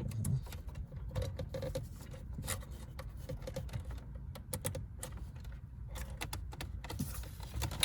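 Irregular light clicks, taps and rattles of a wiring harness and its plastic connectors being handled and fitted into place, over a low steady hum.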